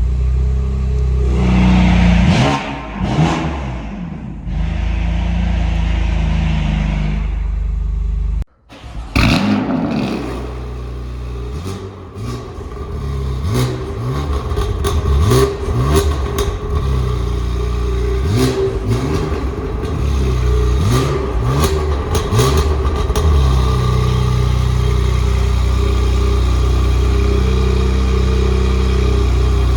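BMW M4's twin-turbo inline-six running through an Armytrix valved exhaust, revved in repeated blips with sharp crackles on the overrun. The sound drops out briefly about a third of the way in, and the engine settles to a steady idle for the last few seconds.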